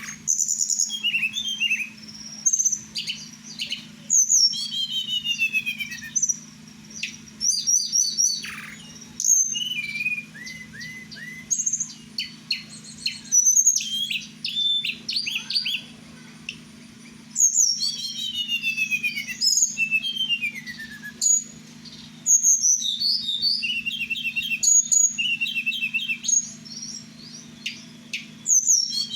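Pet tledekan songbird singing in varied phrases of high chirps, trills and quick falling whistled sweeps, separated by short pauses, over a faint steady low hum.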